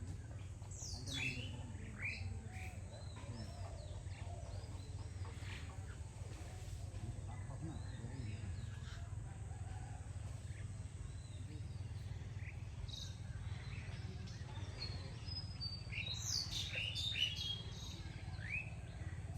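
Birds chirping: many short, quick falling chirps, busiest about a second in and again near the end, over a steady low hum.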